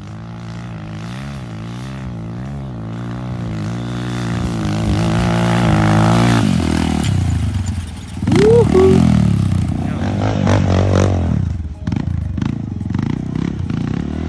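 Motorcycle engine running and revving, its pitch wavering up and down and growing louder, with a quick sharp blip of revs a little past halfway.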